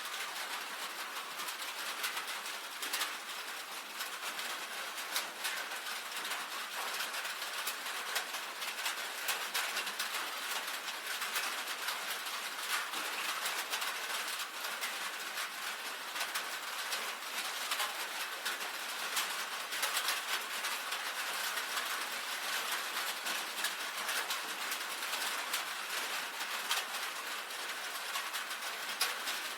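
Rain falling steadily on a tin roof: a constant patter of many drops with frequent sharper ticks.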